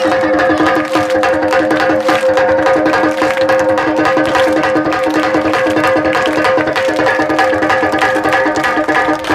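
Rhythmic folk percussion in a steady four-count: a parai frame drum struck with sticks, with the audience clapping or beating along in time, over a steady held tone.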